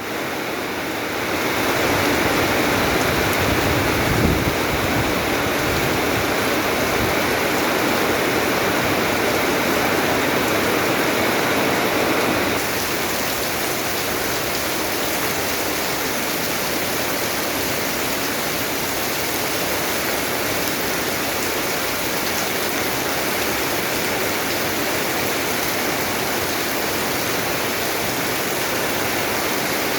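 Steady rushing water, in the manner of rain or a stream, without a break. It grows louder about a second in, then shifts to a slightly quieter, thinner hiss about twelve seconds in.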